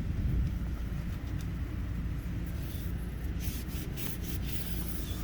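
A cloth rubbing and wiping against a window's glass and frame in short scratchy strokes, mostly in the second half, over a steady low hum.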